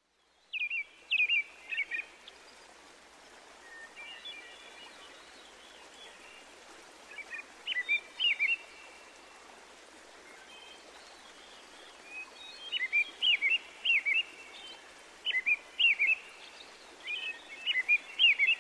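Songbirds chirping in short bursts of quick, high notes, the bursts coming every few seconds, over a steady background hiss.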